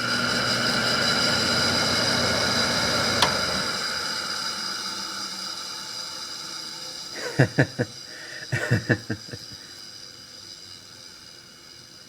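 Fan motor of a 2004 Hampton Bay (by LG) 8,000 BTU window air conditioner running on fan only: a steady whir with a low hum. There is a click about three seconds in, after which the fan winds down and fades. A few knocks follow around seven to nine seconds in. The owner says its fan motor bearings are already going.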